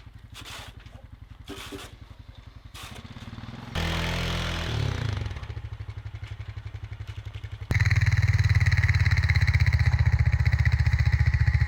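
Engine of a snowplowing vehicle running with a steady low pulse. It gets abruptly louder twice, about four seconds in and again near eight seconds, staying louder after each step.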